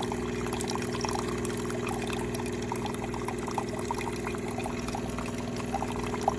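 De'Longhi TrueBrew drip coffee maker brewing: a steady pump hum as liquid pours out, with small crackles throughout.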